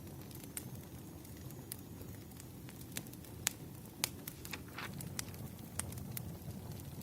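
Wood fire crackling: irregular sharp pops and snaps from the burning logs over a low, steady rumble of the flames.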